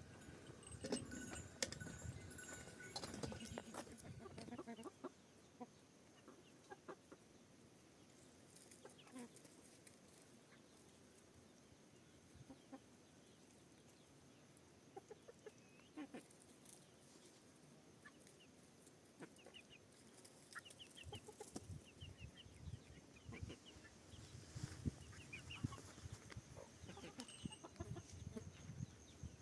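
Chickens clucking faintly in short, scattered calls, with a few knocks in the first few seconds.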